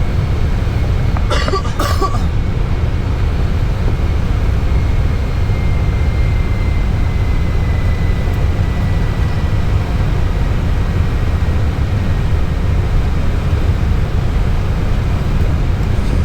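Steady deep rumble of airflow and engines heard inside an airliner's cockpit during the approach descent. A brief cough-like burst of noise comes about a second and a half in.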